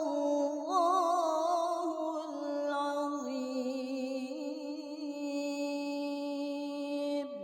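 A female Qur'an reciter holding one long sung note in ornamented tilawah style: quick wavering turns of pitch in the first two seconds, then a steady held tone with a light vibrato.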